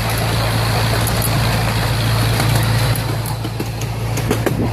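Miniature ride-on park train running along its track: a steady low drone from the locomotive with the rumble of the cars rolling, and a few sharp clicks in the last couple of seconds.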